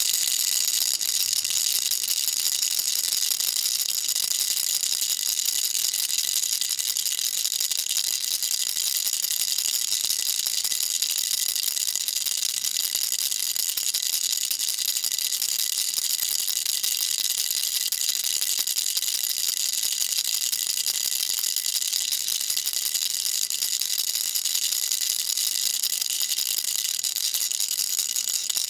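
Toy baby rattle shaken without pause: a dense, even, high-pitched rattling with a faint ringing running through it.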